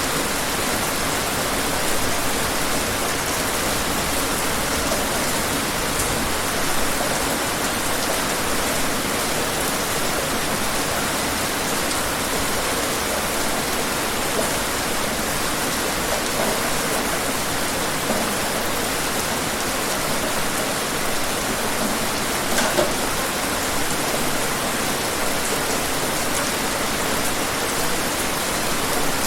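Steady heavy rain falling, a dense even hiss with occasional sharper individual drop hits.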